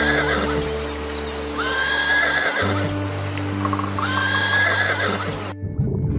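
A horse whinnying, the same call repeated about every two seconds, over background music. The calls cut off suddenly near the end.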